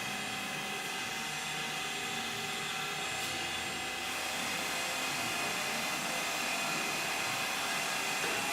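Induction hardening machine running with a steady mechanical whine of several held tones over a hiss, cutting off abruptly at the very end.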